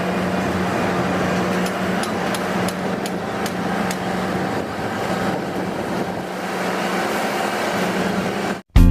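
Heavy machinery running steadily: a constant low engine hum with a few light ticks in the middle, cut off abruptly just before the end.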